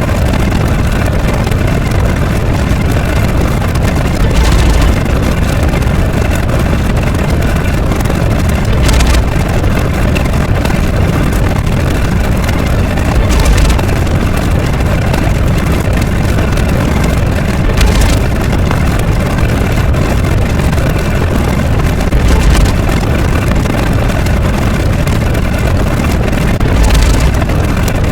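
Loud, steady rumbling noise, heaviest in the low end, with a brief louder swell and hiss about every four and a half seconds.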